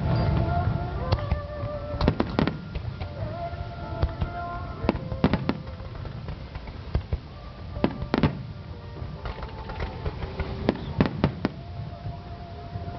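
Aerial fireworks bursting in a display: irregular sharp bangs every second or so, some in quick pairs and triplets, over music with long held notes.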